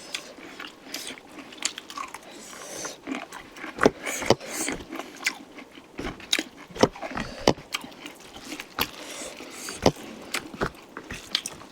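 Close-miked chewing and biting of chicken curry, with many sharp, irregular mouth clicks.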